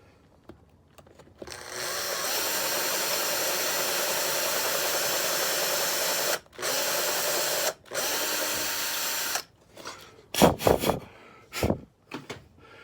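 Power drill with a 12 mm bit running at a steady speed, enlarging an old screw hole in a teak deck to take a wooden plug, stopping twice briefly. A few sharp knocks follow near the end.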